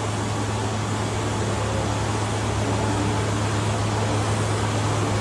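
CNC milling machine running while machining a die-casting mould: a steady low hum under an even hiss.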